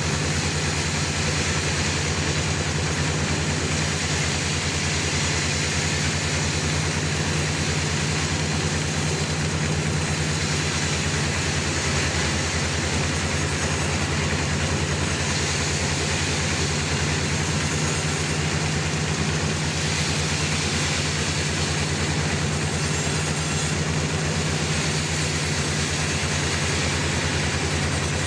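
Band sawmill running steadily, a constant low drone with a hiss over it, as it saws a large trembesi (rain tree) log.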